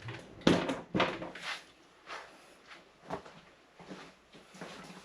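A series of irregular knocks and clunks, the loudest about half a second in, then weaker ones spaced out over the next few seconds.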